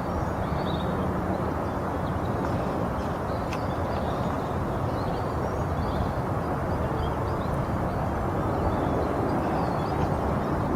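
Steady wind rush and rumble on the microphone from a strong southeaster, with faint high chirps now and then.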